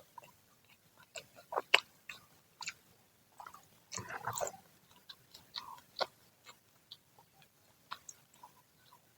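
Close-up chewing and biting of freshly fried Indonesian fritters (gorengan), with irregular sharp mouth clicks. The loudest click comes just under two seconds in, and a denser burst of chewing follows about four seconds in.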